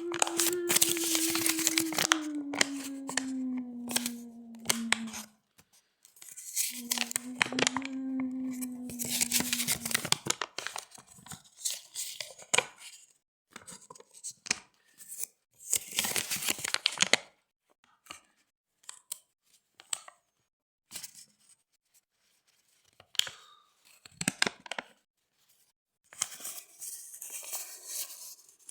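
Drawn-out creaking squeaks: a long squeak slowly dropping in pitch over the first five seconds, a second one a couple of seconds later, then scattered short scraping creaks.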